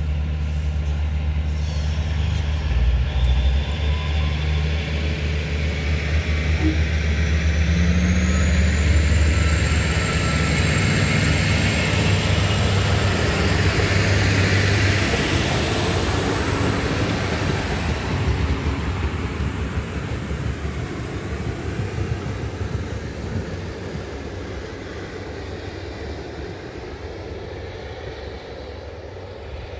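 A train passing. A locomotive engine drones low and steady at first, then the wagons roll by with a rushing rumble and a thin, high-pitched metallic squeal. The sound gradually fades away toward the end.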